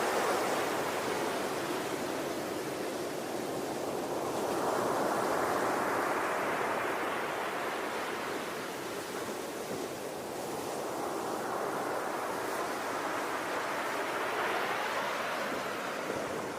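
Ocean surf: waves washing in, a steady rushing noise that swells and ebbs every several seconds.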